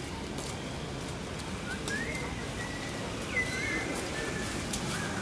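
A bird calling: a few short, high whistled notes, some sliding up and one wavering, starting about two seconds in, over steady outdoor background noise with a few sharp clicks.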